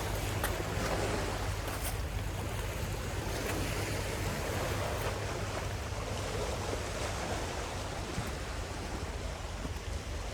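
Sea waves washing on a beach, a steady surf noise, with wind rumbling on the microphone.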